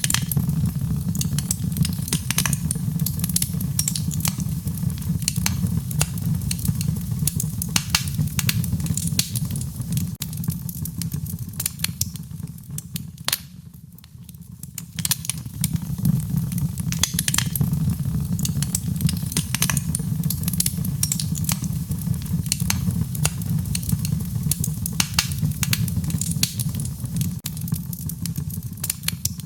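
Wood fire crackling: frequent sharp pops and snaps over a low, steady rumble of burning, which eases briefly about halfway through before picking up again.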